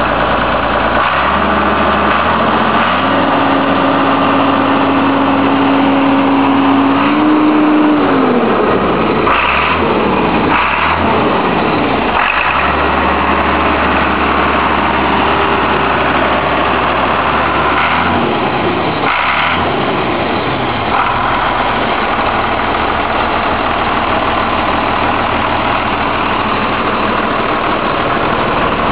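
John Deere 4240 tractor's diesel engine running. Its pitch steps up about two seconds in, holds, and falls back near eight seconds, with a few short knocks in the middle.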